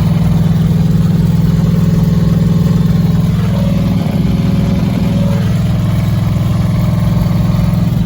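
Turbocharged 5.3 LS V8 in a Dodge Grand Caravan running steadily under way, a low hum with a fine rapid pulse. The engine has developed a heavy knock and is failing, which the owner later takes for a rod going through the block.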